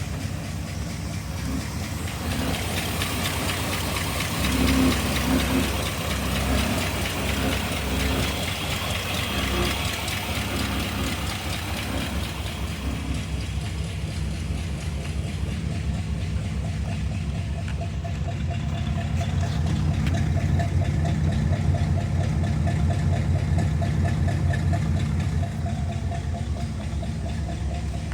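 1962 Pontiac Bonneville's 389 V8 running just after a cold start, swelling in revs a couple of times about five seconds in, then idling steadily.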